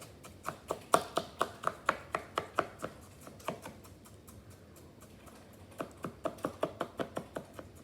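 A kitchen utensil tapping quickly on a hard surface while bird chop is being prepared: about four or five sharp taps a second, in two runs with a pause of a few seconds between them.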